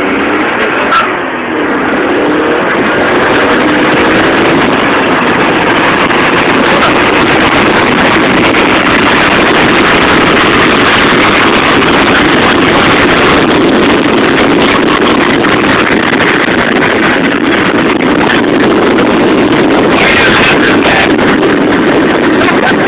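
Car engine accelerating hard, its pitch climbing over the first few seconds, then a loud steady rush of engine, wind and road noise as the car runs at speed.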